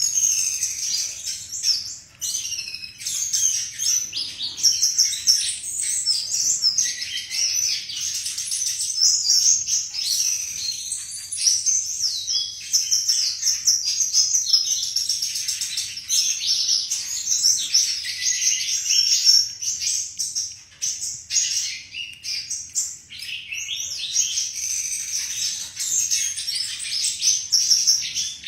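A flycatcher (sikatan) singing a long, varied song of quick high whistled and warbled phrases, one after another, with only brief pauses.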